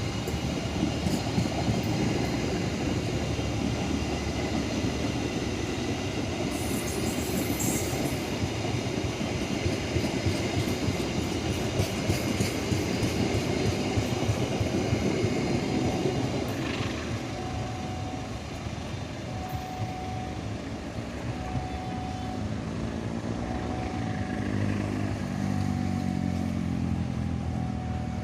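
Passenger train rolling past on the rails, the steady rumble of wheels on track easing off after about 16 seconds. A short beep then repeats about once a second, and an engine drone swells near the end.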